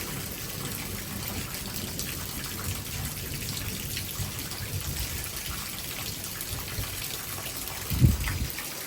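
Heavy rain falling steadily, with water splashing from an overflowing roof gutter. A brief low thump about eight seconds in.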